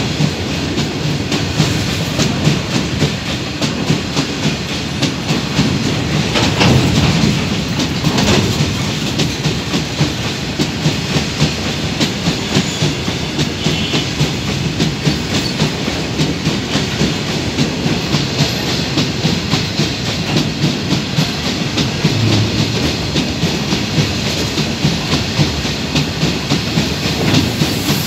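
Indian Railways BOXN open-top freight wagons rolling slowly past at close range, their wheels clattering over the rail joints in a steady clickety-clack over a continuous rumble, with a couple of heavier knocks about six to eight seconds in.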